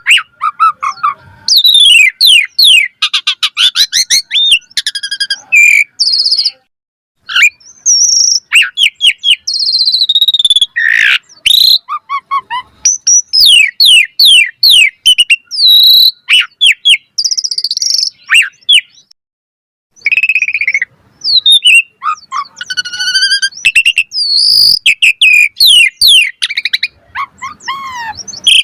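Asian pied starling (jalak suren) singing a long, varied song of fast whistles, rising and falling sweeps and chattering notes, broken by two short pauses, about a quarter of the way in and about two-thirds through.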